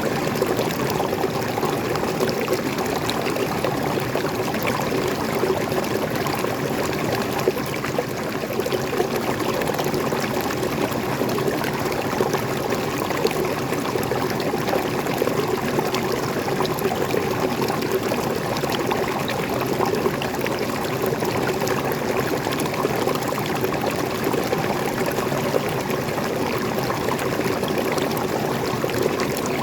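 Waterfall, freshwater pouring and splashing in a steady, unbroken rush.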